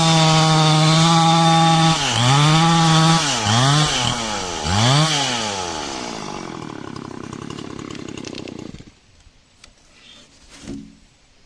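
Stihl chainsaw sawing coconut-palm wood at full throttle, its pitch dipping and recovering three times, then winding down and cutting out about nine seconds in. A few faint knocks follow.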